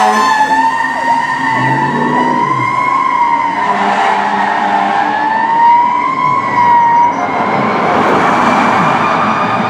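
Siren of a 2016 Pierce Enforcer fire engine on an emergency response, wailing with a slow rise and fall in pitch. Near the end the wail gives way to a steadier, higher tone.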